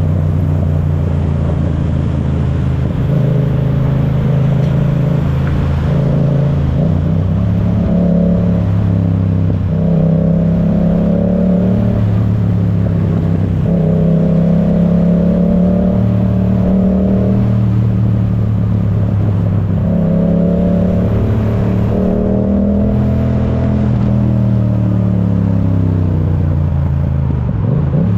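Yamaha YZF-R7's 689 cc parallel-twin engine through an Akrapovic full exhaust, running under load while riding, its note rising and falling several times with throttle and gear changes and dropping sharply near the end.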